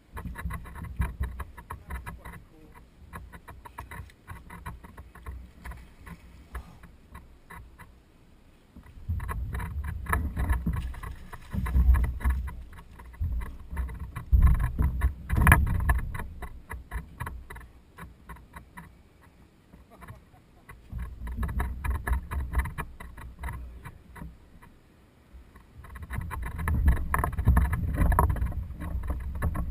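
Water and wind sounds from a small boat on a lake: surges of low rumble come and go several times, over a steady run of small clicks and knocks.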